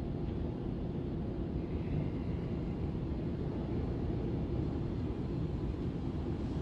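Steady low rumble and hum of airport terminal background noise.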